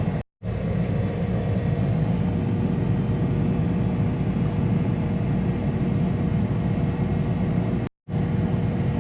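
John Deere 7830 tractor's diesel engine running steadily under the cab, a low even rumble with a faint steady whine above it, as the tractor pulls a grain drill into the field. The sound drops out completely twice for a split second, about a third of a second in and near the end.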